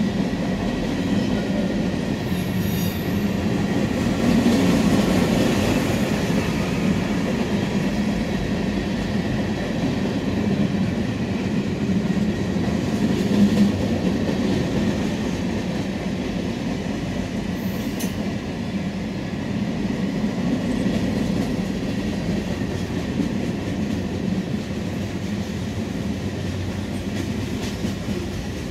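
Freight train of loaded and empty hopper cars rolling past close by: a steady rumble and clatter of steel wheels on rail, with a brief high wheel squeal about three seconds in and another short one around eighteen seconds.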